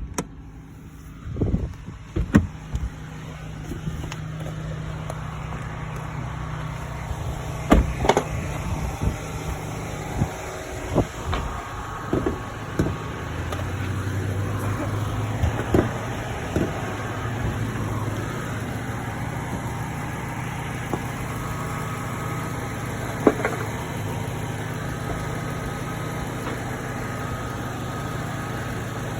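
2022 Mazda CX-3's engine idling steadily. Scattered clicks and knocks through the first half come from the hood being released and lifted open.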